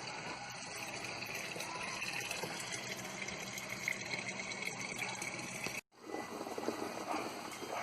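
Water from an artesian well running steadily into a container as it is filled. The sound cuts off abruptly about six seconds in, then similar running-water noise resumes.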